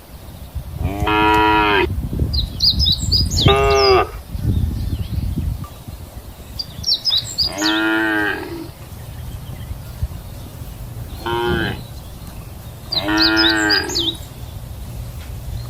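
Cattle mooing: five separate calls of about a second or less each, spread over the stretch, with short gaps between them.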